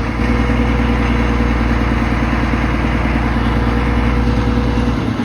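Engine of a tree-cutting machine running steadily with a loud, even drone; its low hum drops away near the end.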